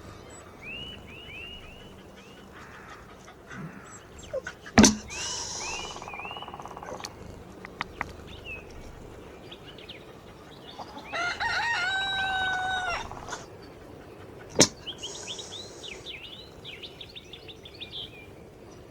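A rooster crows once, a long held call of about two seconds, roughly halfway through. Small birds chirp in quick repeated notes throughout, and two sharp clicks stand out, one early and one after the crow.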